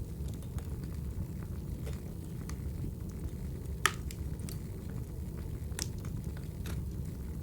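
Wood fire crackling in a fireplace: a steady low rumble of flames with scattered pops and snaps, the sharpest pop about halfway through.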